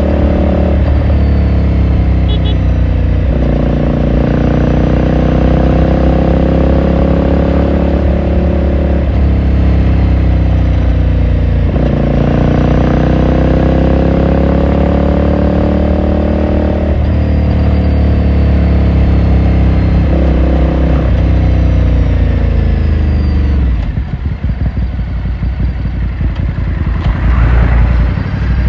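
Ducati Scrambler Sixty2's 399 cc air-cooled L-twin running under load, its engine note rising steadily in each gear and dropping back at each upshift, five or six times. Near the end the engine note falls away to a low, uneven running.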